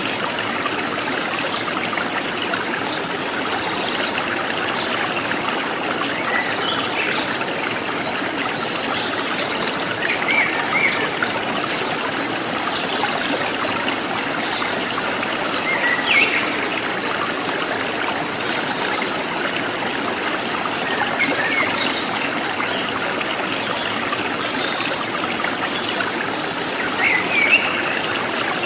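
Forest stream trickling steadily, with short high wild-bird chirps and whistles every few seconds.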